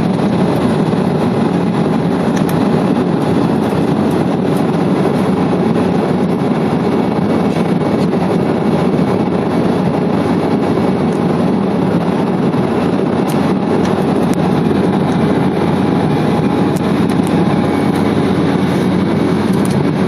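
Steady cabin noise of an Embraer 190 climbing after takeoff: a constant rushing sound from its two turbofan engines and the air over the fuselage, with a few faint steady whines above it.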